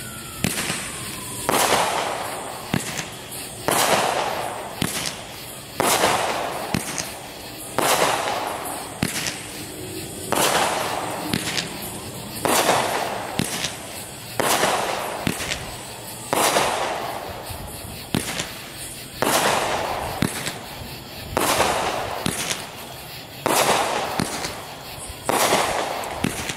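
Black Cat 'Two Minute Show' 500-gram multishot fireworks cake firing shot after shot: a loud bang about every two seconds, each trailing off, with smaller pops between.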